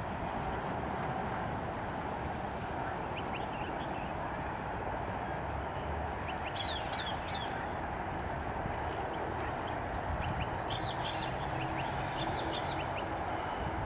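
Birds chirping in quick bursts, twice, over a steady rushing background noise.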